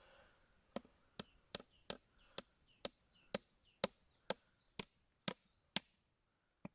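Hammer driving nails into an oak bird box: about a dozen even blows, roughly two a second, each with a short metallic ring, stopping about six seconds in.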